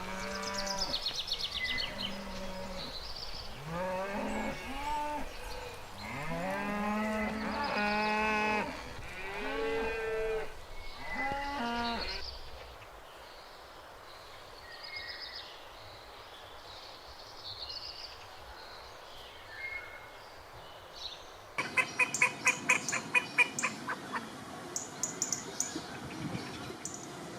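Cattle mooing, several long calls one after another. After that, faint bird chirps for a while. Then, about three-quarters of the way in, a sudden switch to ducks quacking in a rapid run of sharp calls.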